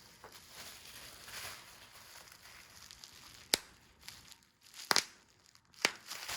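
Rustling and crinkling during hunting play with a cat, broken by three sharp snaps, the first about halfway through and the last near the end.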